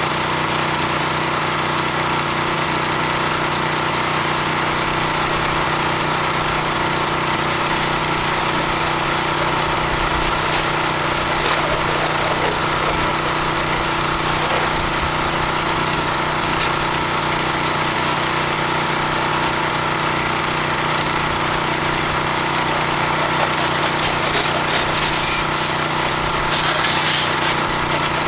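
A 4 gallon-per-minute pressure washer running steadily while rinsing: the even drone of its engine under the hiss of the water spray.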